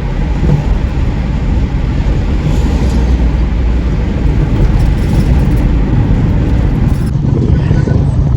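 Motor vehicle on the move: a steady, loud low rumble of engine and road noise. The higher hiss drops away abruptly about seven seconds in.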